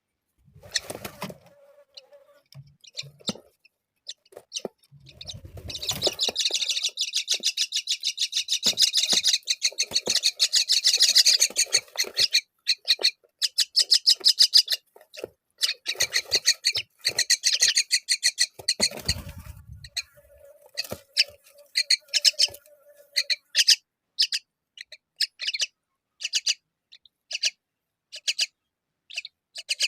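Common myna nestlings giving rapid, insistent begging chirps while being fed fig, in a dense run for about thirteen seconds that then thins to spaced single chirps. There are low thumps near the start and end of the busy stretch.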